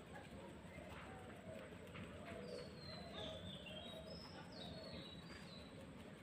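Faint birds calling in the background, with a run of short high whistled chirps from about two and a half to five and a half seconds in, over low steady background noise.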